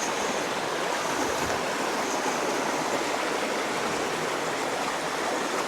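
Steady rushing of flowing water, an even wash of sound with no breaks.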